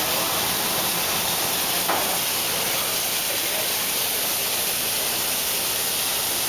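Steady hiss of a hot sauté pan sizzling just after white wine is poured in over the onions and flour.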